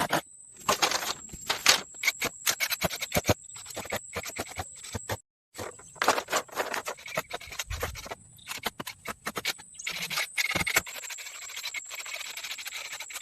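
Short scrapes, clicks and knocks of hands and tools at work. There is a brief dead gap about five seconds in, and a steady hiss takes over near the end.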